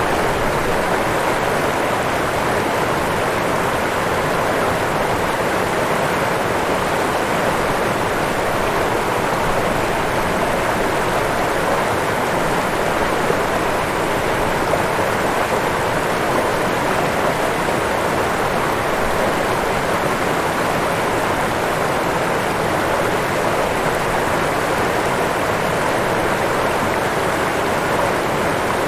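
Waterfall: falling water splashing in a steady, even rush.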